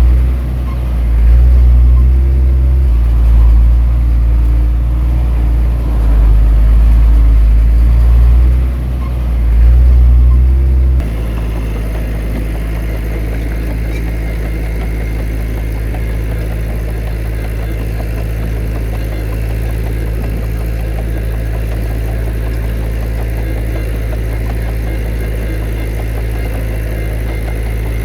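Heavy diesel engine of earthmoving machinery working, its loudness rising and falling with the load. About eleven seconds in it changes abruptly to a steadier, quieter engine sound that runs evenly.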